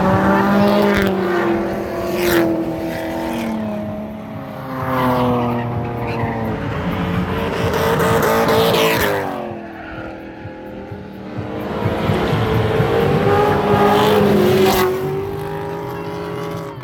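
Drift cars' engines revving hard, the pitch climbing and dropping repeatedly as they are worked through the corners, with tyre squeal. Around eight to nine seconds in, one engine's pitch falls steeply as it lets off, then rises again.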